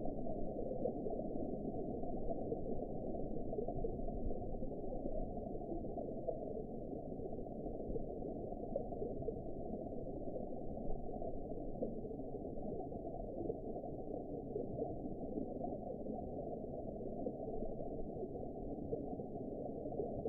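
Steady, muffled underwater ambience: a dull, even rush with nothing above about 1 kHz and no distinct events.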